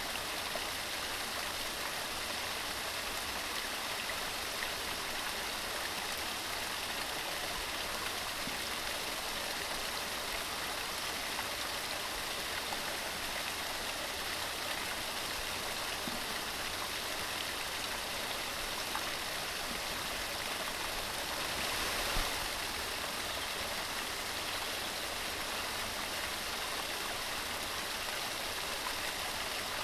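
Mountain stream running steadily, an even rush of water, with one brief louder moment about three quarters of the way through.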